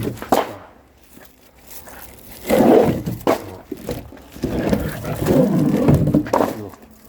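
Firewood logs knocking and scraping against each other as they are handled, with several sharp knocks.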